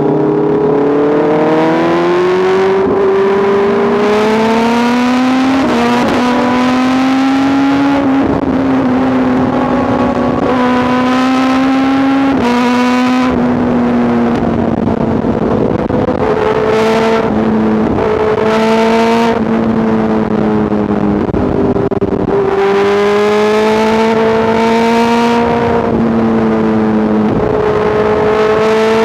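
Inline-four sport motorcycle engine under way, accelerating with its pitch climbing through a gear and dropping sharply at each upshift, several times in the first half. It then settles into a steadier run with gentle rises and falls in pitch, over wind and road noise.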